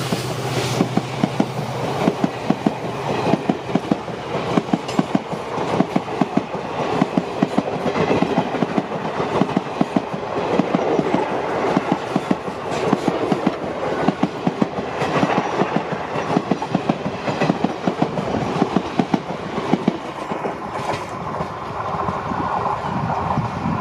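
Indian Railways express passenger coaches passing close by at speed, their wheels clattering in a quick, rhythmic clickety-clack over the rail joints. The clacking thins out near the end as the train draws away.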